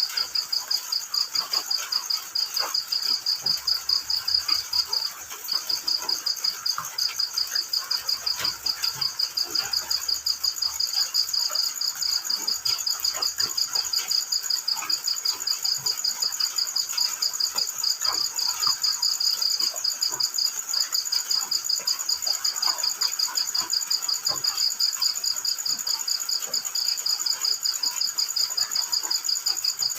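Crickets chirping in a steady, rapid pulsing trill, with a brief break about five seconds in and a fainter high insect trill above it. Scattered faint ticks sound underneath.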